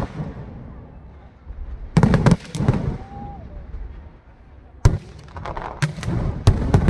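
Aerial fireworks shells bursting in clusters of sharp bangs: a group of cracks about two seconds in, one sharp bang near five seconds, then a quick run of bangs toward the end, with rumbling between.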